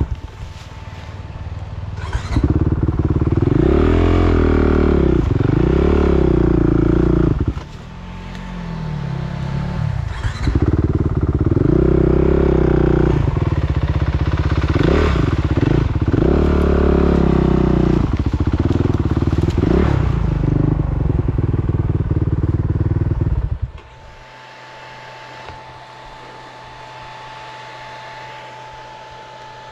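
Motocross motorcycle engine revving up and down again and again as the bike is ridden hard, with brief dips in between. Near the end it drops away to a much quieter steady hum.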